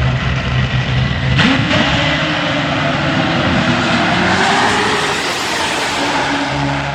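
Top Fuel drag motorcycle at full throttle down the drag strip: a sudden loud start about a second and a half in, the engine pitch rising as it runs toward and past, then the sound drops away abruptly near the end.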